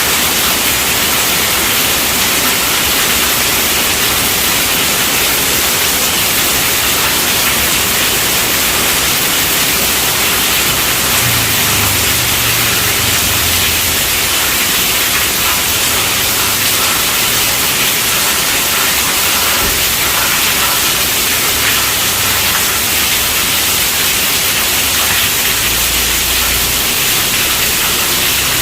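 Heavy rain falling steadily on a tent roof, a dense, even hiss with no break.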